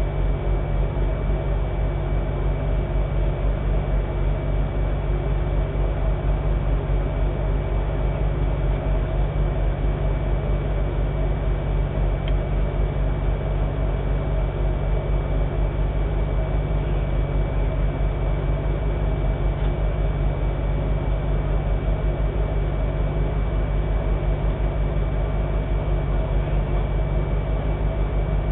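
Land Rover Defender's engine idling steadily, heard from inside the cab as a constant low drone, with a faint steady high whine over it.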